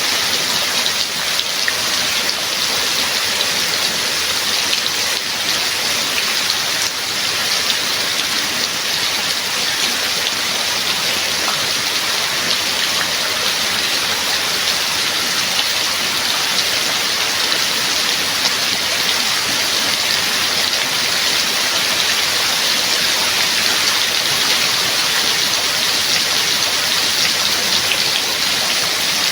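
Steady heavy rain, a dense even hiss of drops with many small pattering ticks.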